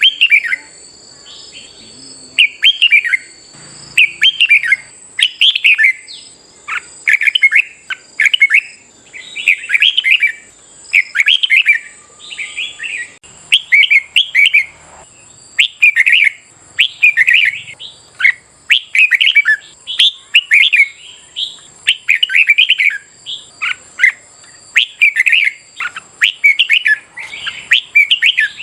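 Red-whiskered bulbul singing its loud, short warbled phrases over and over, about one phrase a second.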